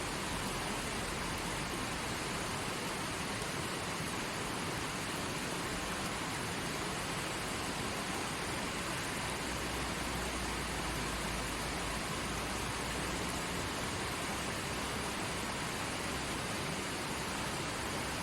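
Stream water flowing over rocks, a steady, even rushing.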